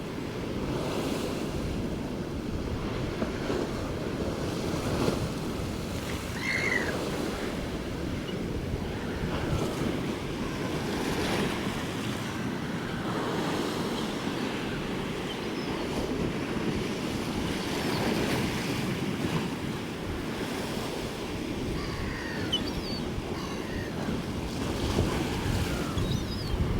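Storm surf on the North Sea, waves breaking and rushing continuously, with wind gusting over the microphone.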